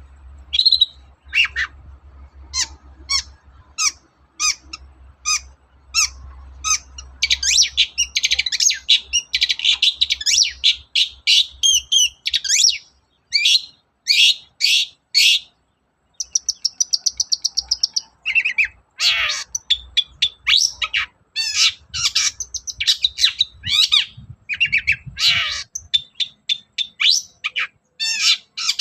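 Long-tailed shrike (cendet) singing: sharp high notes about two a second at first, then a fast, varied song full of mimicked phrases, with a rapid even trill a little past halfway.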